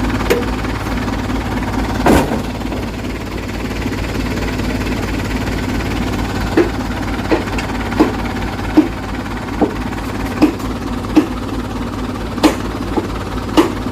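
Dump truck engine running with a steady low drone. There is one sharp knock about two seconds in. From about halfway, short knocks repeat roughly every three-quarters of a second.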